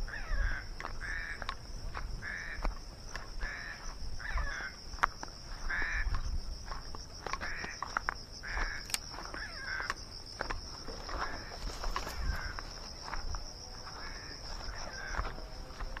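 A bird giving short harsh calls over and over, about two a second, thinning out in the second half. Under it runs a steady high-pitched insect drone, with footsteps and brushing through undergrowth.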